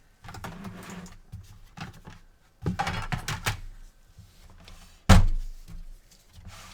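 Clicks, knocks and scraping as a PS4 console's casing is handled and opened up, with one loud thunk about five seconds in.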